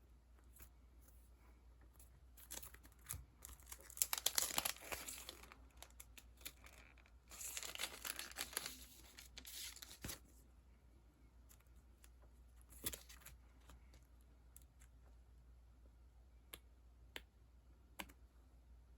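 Plastic sticker packaging being handled and pulled open: two bursts of crinkling and tearing a few seconds apart, with scattered light clicks and taps around them.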